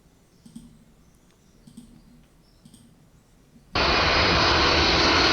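A few faint clicks, then about three-quarters of the way in a recording of a jet airliner's engine noise starts abruptly, loud and steady.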